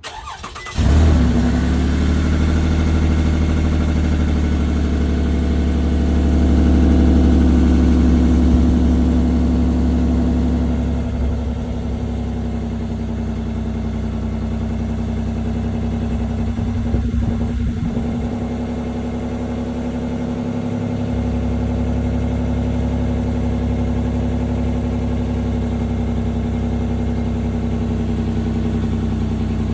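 2012 Toyota RAV4 V6 cold start: the starter cranks briefly and the 3.5-litre V6 catches under a second in, then runs at a high cold fast idle that eases down to a lower, steady idle after about ten seconds.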